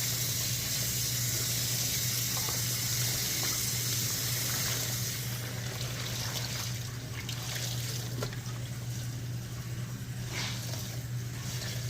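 Water running from a tap, a steady hiss that is stronger for the first five seconds or so and then softer, over a low steady hum, with a few light knocks near the end.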